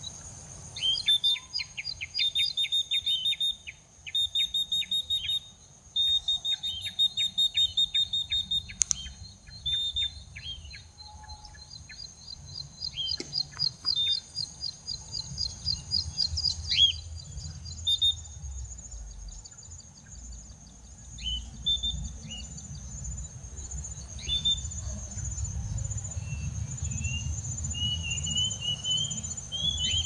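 Bird chirping in quick trilled bursts of about a second each, thinning after about fifteen seconds to scattered single downward-sliding calls, over a steady high insect drone and wind rumbling on the microphone.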